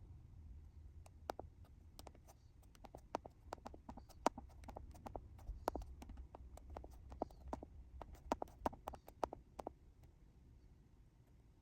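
A run of irregular sharp clicks and light knocks, a few a second and uneven in strength, over a faint low hum; it stops a couple of seconds before the end.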